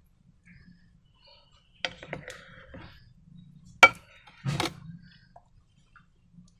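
A few sharp clicks and knocks of hard objects being handled, the loudest a single sharp click about four seconds in, followed by a short rustling burst.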